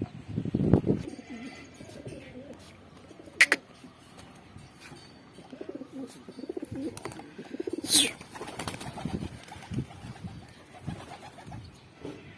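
Domestic pigeons cooing in low, repeated coos. There is a sharp click about three and a half seconds in and a louder burst of noise about eight seconds in.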